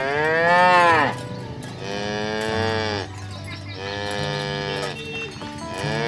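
Cows mooing: several long, loud calls one after another, each rising then falling in pitch, the first one the loudest.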